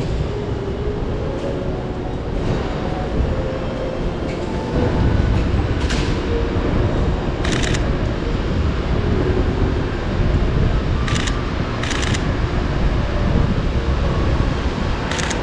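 Steady low rumble of street traffic, with five short bursts of rapid camera-shutter clicks.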